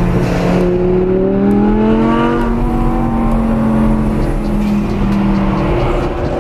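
Car engine revved and held at a raised speed: its note climbs over about a second and a half, holds steady for a few seconds, then drops back near the end.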